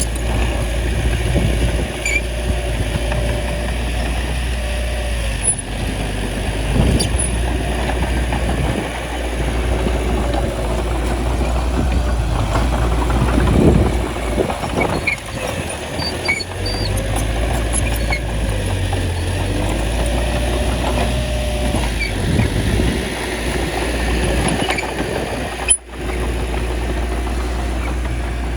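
Bulldozer's diesel engine running steadily while pushing soil, its pitch wavering up and down, with a brief dropout near the end.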